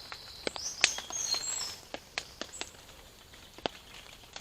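A small bird singing briefly, high thin whistled phrases that stop a little under two seconds in. Scattered sharp clicks and taps run through it, the loudest about a second in.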